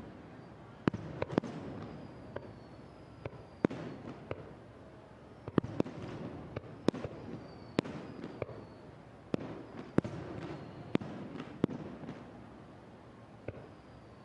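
Aerial fireworks bursting in an irregular series of sharp bangs, about fifteen to twenty of them, coming thickest in the middle and thinning out near the end.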